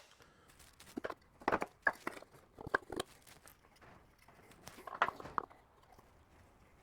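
Scattered light clicks and knocks from water-pump parts and tools being handled during disassembly, a few sharp taps a second or so apart with quiet in between.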